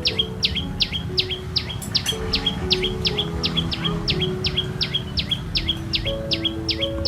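A bird calling in a fast, even series of sharp downward-sweeping chirps, nearly three a second, over background music with slow, held low notes.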